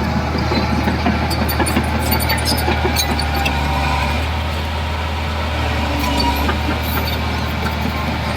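Bulldozer's diesel engine running steadily with a deep hum, with scattered light metallic clanks from the machine.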